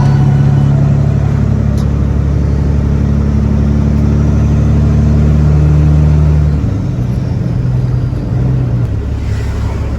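Semi truck's diesel engine running steadily under load, a low drone that drops in level and eases off about two-thirds of the way in.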